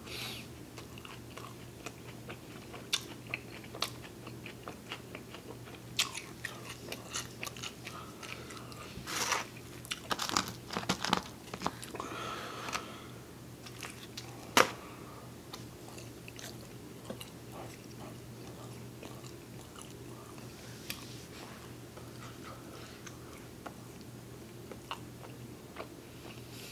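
Close-up biting and chewing of a slice of Domino's pizza: wet mouth clicks and smacks, busiest about halfway through and then thinning to occasional clicks, over a faint steady low hum.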